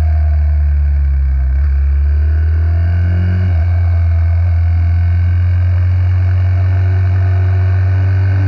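Small single-cylinder four-stroke minibike engine under way. Its pitch climbs and drops abruptly twice, about one and a half and three and a half seconds in, as it shifts up, then holds fairly steady.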